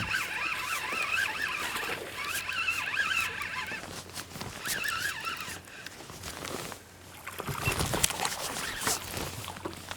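A fishing reel cranked in three short bursts, a whirring whine that wavers in pitch with the cranking, as a hooked fish is reeled in. Later come clicks and low knocks of handling and splashing.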